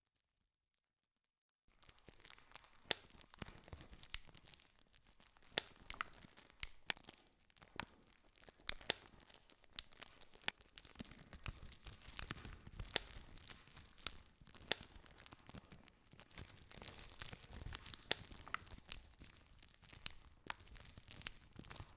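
Wood campfire crackling, with frequent sharp pops and snaps over a steady hiss. It cuts in suddenly after a moment of dead silence, a little under two seconds in.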